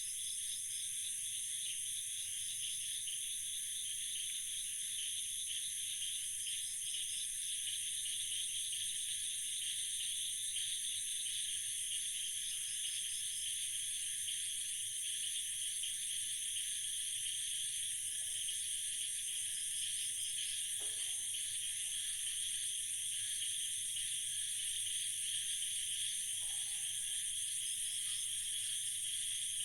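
Steady night chorus of crickets and other insects, a dense high-pitched trilling, with short higher trills coming in every few seconds.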